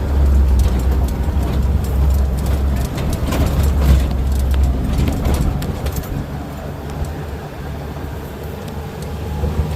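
A vehicle's engine running with a loud, steady low rumble and a haze of noise, easing somewhat after about six seconds, with scattered clicks and knocks over it.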